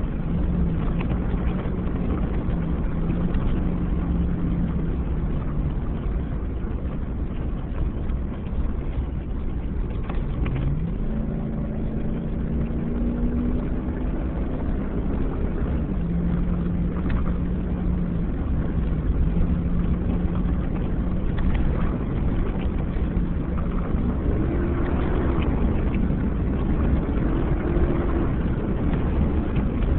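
2007 Chevy Avalanche's V8 engine pulling hard at speed over a dirt and gravel road, with steady tyre noise from the gravel underneath. The engine pitch climbs about ten seconds in, holds, and rises and falls several times near the end.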